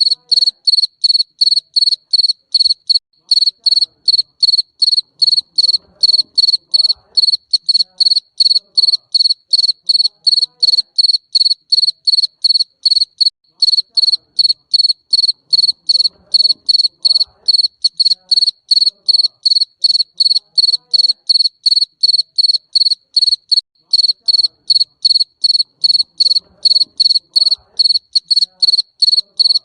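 Field cricket chirping loudly and steadily: short high-pitched chirps repeated evenly, about three a second, with a fainter higher overtone.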